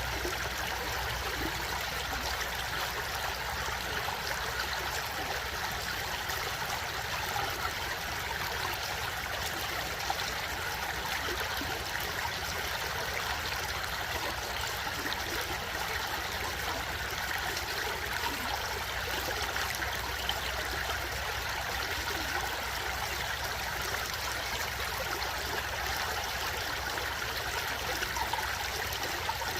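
Stream water flowing and trickling at an even, steady rate.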